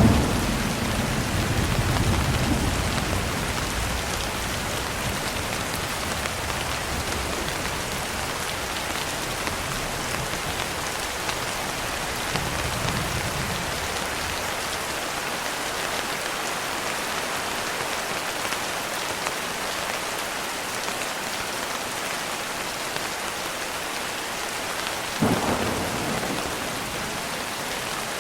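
Steady heavy rain with thunder: a thunderclap rumbling at the start, a weaker distant rumble a little before halfway, and a sharper clap with rumble near the end.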